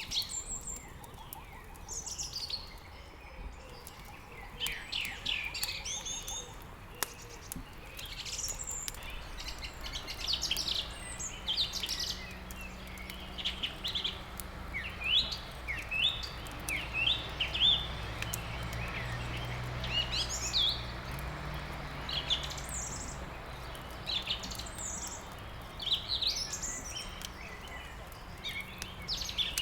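Small songbirds chirping and twittering continuously in short repeated calls, with a few sharp crackles of burning wood in a fireplace. A low steady hum joins from about a third of the way in.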